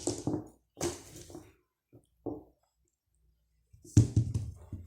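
A die being picked up and thrown onto a table: a few short knocks and rustles, then a louder clatter about four seconds in as it lands and tumbles.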